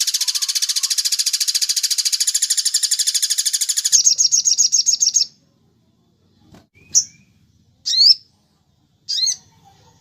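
Recorded bird calls: a dense, rapid high trill for about four seconds, then a louder fast rattle that stops about five seconds in, followed by three short, separate chirps with upward-sliding notes.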